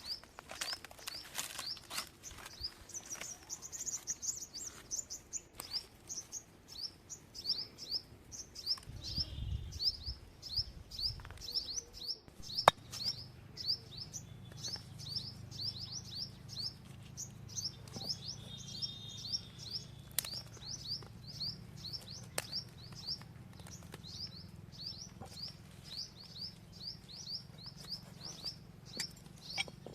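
Small birds chirping over and over in short, high, sharp chirps, about three a second, with no let-up. About halfway through there is a single sharp click, and a low steady hum joins the chirping from then on.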